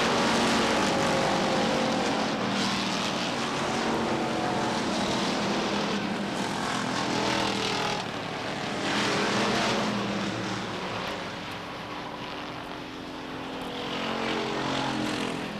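A pack of stock cars racing on a short oval, their engines running hard at high revs, the pitch rising and falling as the cars pass. The sound swells about nine seconds in and again near the end.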